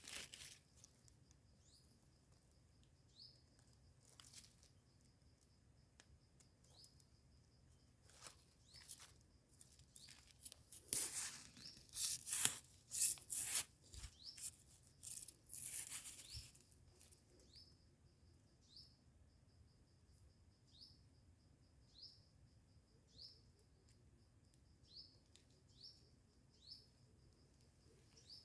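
Rustling, tearing and scraping in leaf litter and soil as termite mushrooms are picked by hand, loudest in a cluster about halfway through. Behind it, a bird gives a short, high, falling chirp every second or two.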